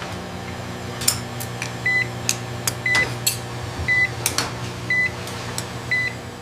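Medical patient monitor beeping about once a second over a steady equipment hum, with scattered sharp clicks.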